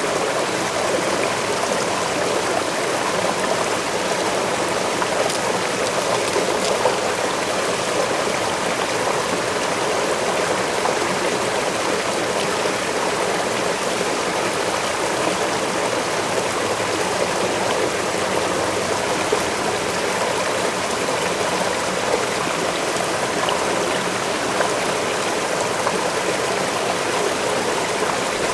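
Waterfall: a steady rush of falling and splashing water, even and unbroken throughout.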